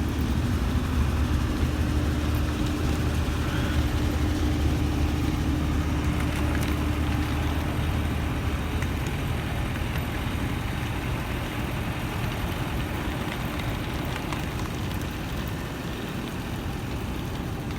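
A steady engine hum with a low drone that drops out about eight seconds in, leaving a steady rushing noise.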